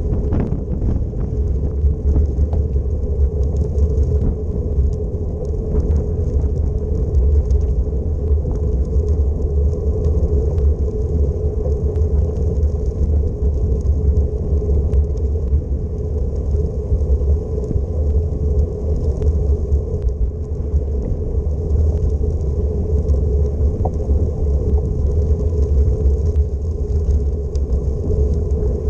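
Wind buffeting the microphone during a bicycle ride, a loud, gusty low rumble, with a steady hum and a few faint ticks from the ride underneath.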